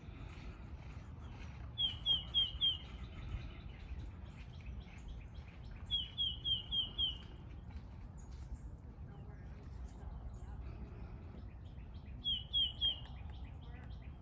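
A bird calling in three short bouts, each a quick run of three to five sharp chirps that slide down in pitch, over a steady low background rumble.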